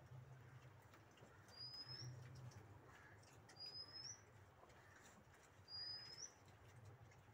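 A small bird's faint, short rising chirp, repeated three times about two seconds apart, over a faint low steady hum.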